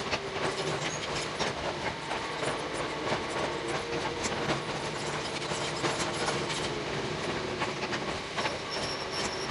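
Hakone Tozan Railway 2000 series electric railcar running on curving mountain track, heard from behind the cab: dense, rapid clicking from the wheels and running gear over a steady hum, with a thin high whine coming in near the end.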